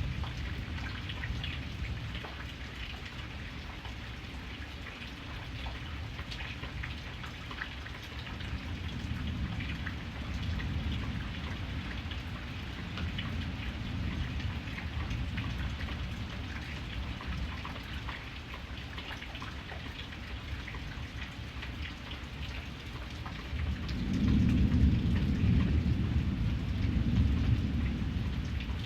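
Steady rain falling, with a patter of fine drops. A low rumble of thunder swells near the end and rolls on.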